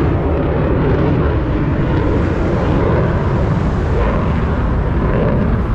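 Harley-Davidson motorcycle running at road speed, its engine under steady wind rush on the rider's microphone.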